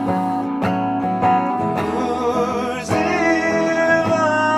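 Acoustic guitar strummed in a steady rhythm, joined about three seconds in by a man's voice singing a slow, wavering melody.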